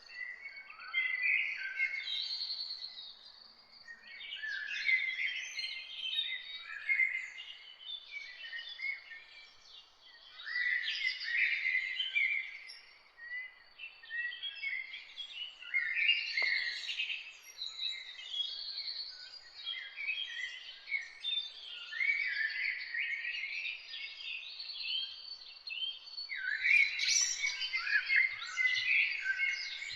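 Several songbirds singing and chirping together in a dense, overlapping chorus of short high chirps and trills, with brief lulls, over a faint steady background hiss.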